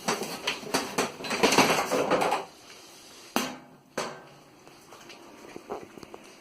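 Hard objects clattering and rattling as they are handled, for about two and a half seconds, then two sharp knocks about half a second apart.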